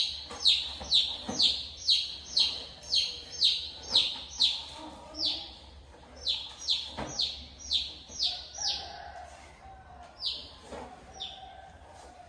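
A bird calling over and over: short, sharp chirps that fall in pitch, about two a second at first, then coming more sparsely and fainter after about five seconds.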